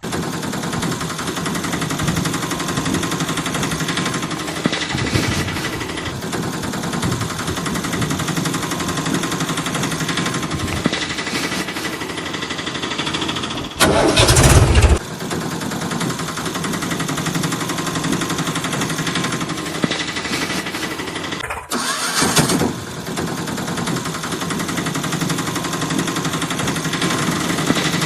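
Tractor engine running steadily, with a loud burst lasting about a second near the middle and a shorter one later on.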